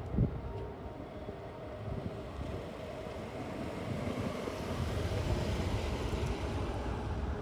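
Steady low outdoor rumble with wind noise on the microphone, a brief knock just after the start, and a hiss that swells through the middle and eases off near the end.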